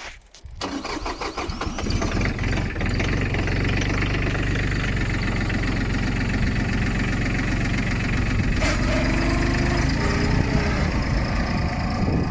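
Branson 2500H compact tractor's 25 hp diesel engine cranking and catching about half a second in, then running steadily at idle. There is a sharp click about nine seconds in.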